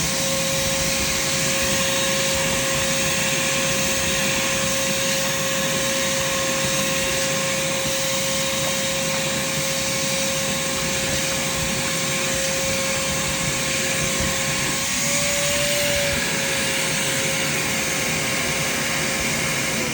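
Upright vacuum cleaner running steadily on a thin doormat, a constant motor whine over the rush of suction air. About three-quarters of the way through, the pitch rises briefly and then settles back.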